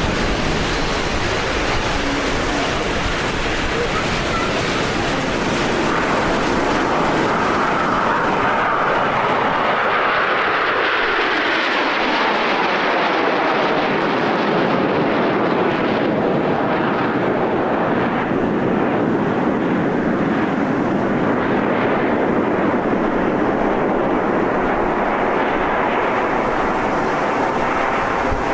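Aermacchi MB-339 jet trainers flying past, a loud, steady jet noise. From about a third of the way in, the hiss at the top end fades as the jets move off.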